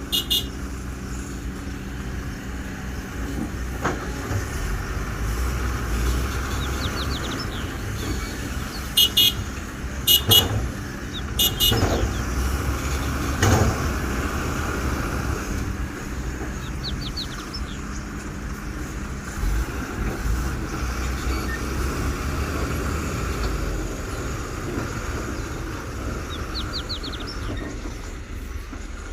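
Kobelco excavator's diesel engine running steadily as it digs and loads, with a few sharp knocks. Two short horn toots come about nine and ten seconds in.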